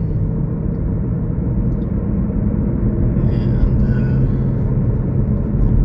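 Steady car engine and road rumble heard from inside the cabin while driving, a constant low drone with a steady hum.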